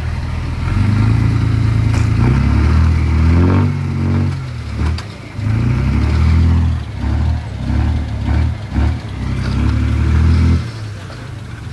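Diesel engine of an earthmoving machine revving under load, its pitch climbing about four seconds in, then surging and dropping again and again in the second half before easing off near the end; a few light clanks.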